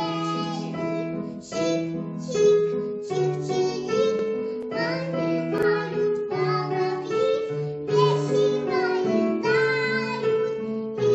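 A children's song about spring: children's voices singing a melody over piano or keyboard accompaniment.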